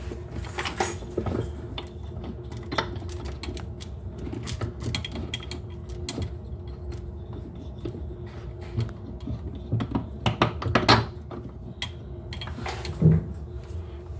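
Small metal faucet mounting parts and a screw clicking and clinking as they are handled and fitted together. The clicks are irregular, with a cluster of louder knocks about ten to eleven seconds in and another about thirteen seconds in, over a steady low hum.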